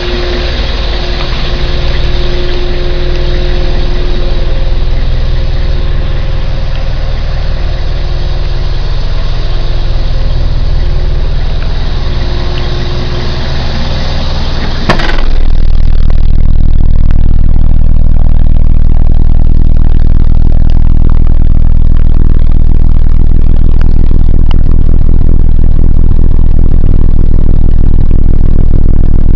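Pickup truck engine running steadily, 1998 Nissan Eagle. About halfway through there is a sharp click, after which the sound becomes a steadier, deeper drone with less hiss.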